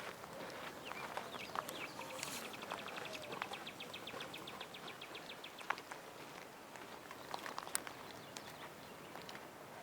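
A bird trilling: a fast, even run of high notes lasting about three seconds, starting about two seconds in. Scattered light clicks and crunches sound around it.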